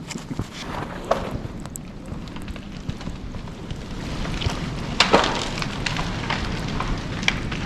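A snow-laden tree snapping and crashing down through the branches of other trees: a run of sharp cracks and crackling, with the loudest crack about five seconds in. Wet, heavy snow stuck to the branches is what broke it.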